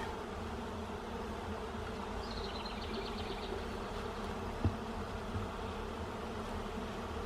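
Honeybees buzzing around an open hive, a steady drone throughout. A short run of high chirps comes about two seconds in, and a single soft knock a little past the middle.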